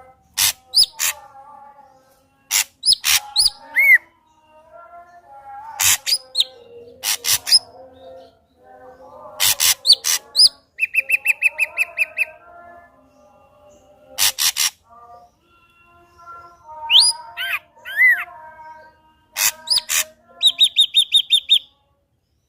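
Ashy drongo singing a busy, varied song: sharp cracking clicks, upward-sweeping whistles and two rapid trills of about ten notes a second, one near the middle and one near the end.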